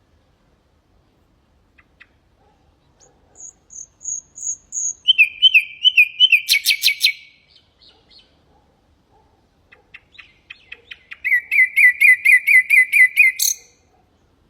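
Common nightingale singing: two separate song phrases with silent pauses between them. The first is a few high thin whistles leading into a fast buzzy trill and a loud rattle. The second, near the end, is a rapid run of about ten identical notes, cut off sharply.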